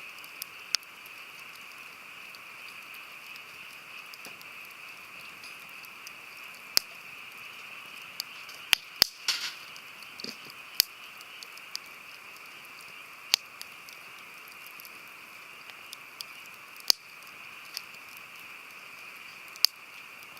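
Wood campfire burning with a steady hiss and sharp, irregular pops every few seconds, with a quick cluster of crackles about nine seconds in.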